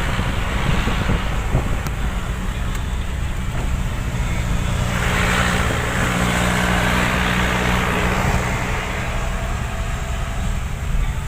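Truck engine running with a steady low drone. A broad rushing noise swells about five seconds in and fades a few seconds later.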